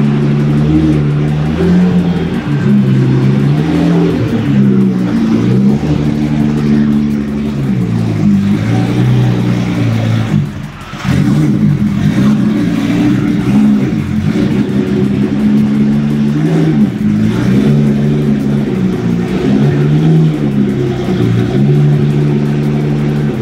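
Engine of a 1,300-horsepower Nissan Z drift car driven slowly on the street, its revs rising and falling again and again as it pulls away and eases off, with a brief dip in loudness about ten seconds in.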